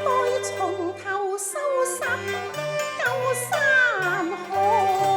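Cantonese opera accompaniment ensemble playing a melodic passage: a sliding, bowed-string-like melody over steady low sustained notes.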